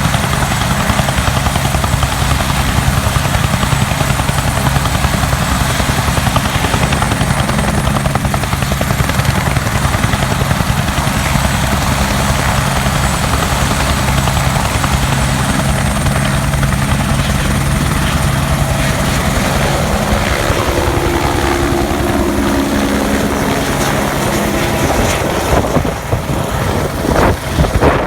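A firefighting helicopter's turbine and rotor running loud and steady. About two-thirds of the way through the pitch shifts and the sound becomes uneven toward the end, as the helicopter lifts off.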